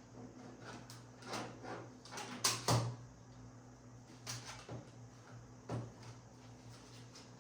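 Handling noise from an LED strip controller kit being picked up and set in place: scattered clicks and knocks, the loudest pair about two and a half seconds in, over a low steady hum.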